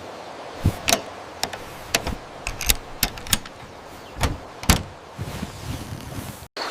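A run of irregular clicks, knocks and light clinks, small objects being handled and set down, over a steady background hiss.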